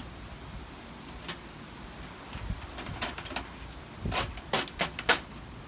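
Metal screen being squeezed and worked around a plastic paint can: a scatter of sharp clicks and crackles, sparse at first and bunching into a quick cluster in the second half.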